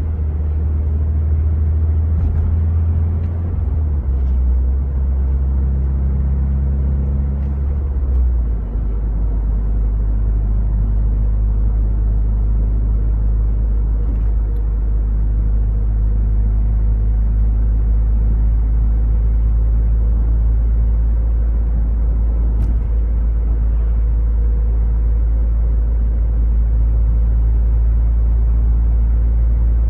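Toyota 86's 2.0-litre flat-four breathing through a Kakimoto Class KR quad-exit aftermarket muffler, heard from inside the cabin while driving: a deep, low exhaust drone. Its pitch drops in two steps within the first nine seconds or so, then holds steady as the car cruises.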